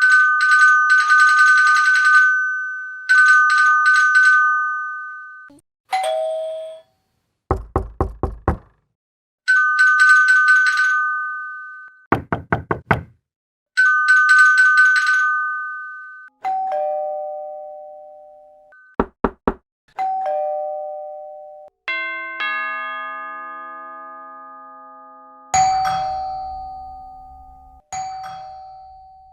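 Doorbells and knocking on a door, one after another. Bursts of a fast electronic ringing trill alternate with quick sets of knocks in the first half, then two-note ding-dong doorbell chimes repeat, with one longer multi-note chime in between.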